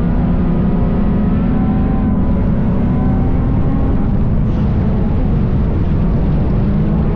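Chevy Cobalt dirt-track race car's engine running loud and steady, its pitch holding fairly even.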